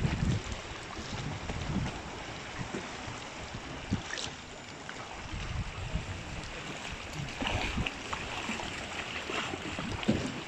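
Sea water sloshing and splashing around the camera at the surface, with wind buffeting the microphone and irregular low thumps.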